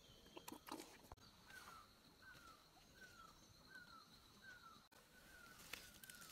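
Faint bird calling a short falling note over and over, about one every three-quarters of a second, from about a second and a half in. A few soft steps and rustles on garden soil near the start and end.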